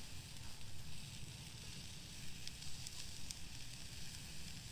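Steady sizzling hiss of food cooking, over a low fluttering rumble, with a few faint clicks in the middle.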